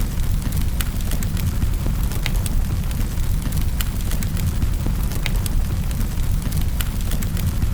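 Wood fire burning in a fireplace: a steady low rumble with irregular sharp crackles and pops every fraction of a second to a second.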